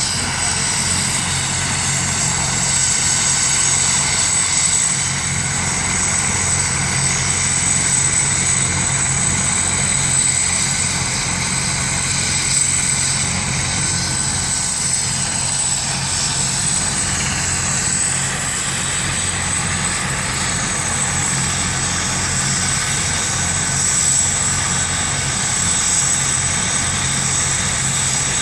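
Rescue helicopter running steadily: a high, even turbine whine over the low beat of the rotor, with no change in pitch or level.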